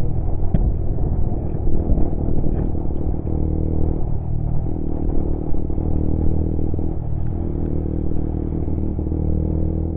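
Lexmoto Assault 125cc motorcycle's single-cylinder engine running under way, its note shifting briefly a couple of times as the rider changes pace.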